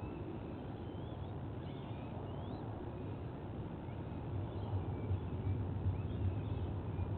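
Faint, scattered chirps of distant small birds over a steady low rumble, which grows louder about four and a half seconds in.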